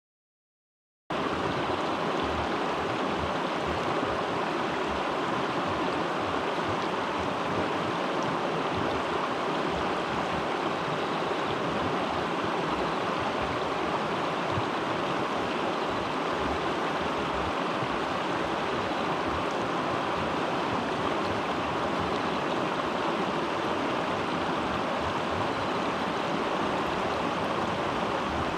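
Steady rush of flowing stream water, starting about a second in.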